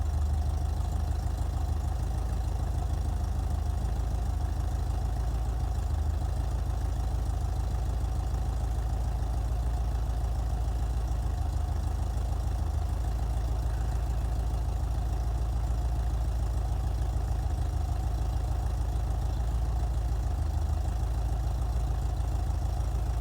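Porsche 356 Vintage Speedster's engine idling steadily during warm-up, about five minutes after a dead cold start.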